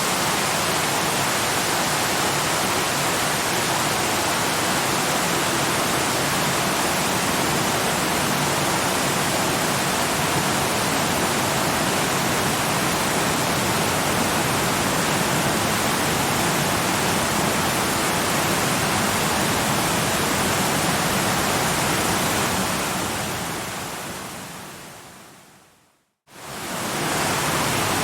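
Waterfall with a steady, even rush of falling water. Near the end it fades out to silence and then fades straight back in, as at the join of a looped recording.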